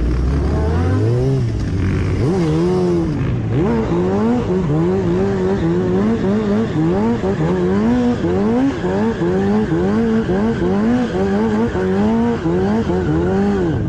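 Motorcycle engine revving: from a low idle it climbs, then rises and drops again and again in quick blips, about one and a half a second, for most of the clip.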